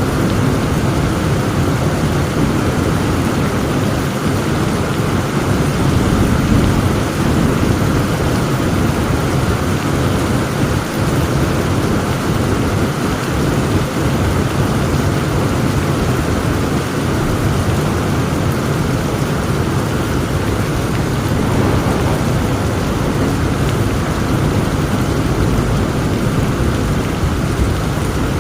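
Heavy rain pouring steadily, with a continuous low rumble of thunder beneath it.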